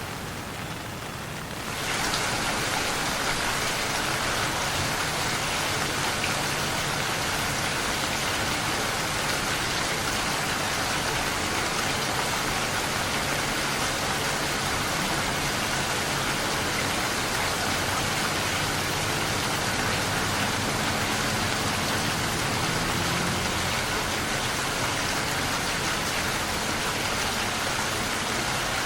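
Steady rain falling. It jumps suddenly louder and brighter about two seconds in, then keeps up an even hiss.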